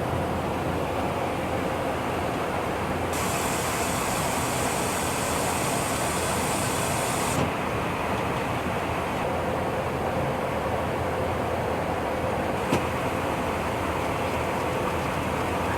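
Steady mechanical drone. A high hiss joins it for about four seconds from three seconds in, a steady tone rises above it later, and a single sharp click comes near the end.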